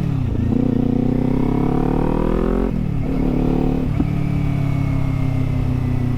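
Kawasaki Z400's parallel-twin engine through a LeoVince aftermarket exhaust, accelerating. The revs climb and drop sharply at an upshift just after the start and again about three seconds in, then settle to a steady cruise.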